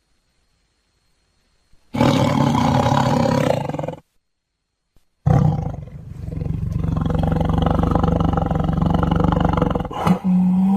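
Tiger roaring: a roar of about two seconds, a short silence, then a longer roar of about five seconds, with another roar starting near the end.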